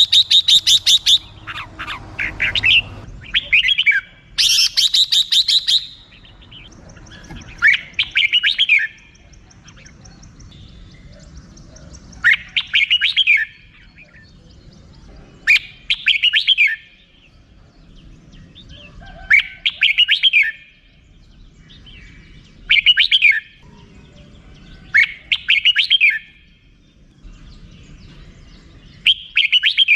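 Red-whiskered bulbul giving its rapid chattering 'rik-rik-rik' call in short bursts, a phrase every three or four seconds, with the densest, fastest chatter near the start and again about five seconds in.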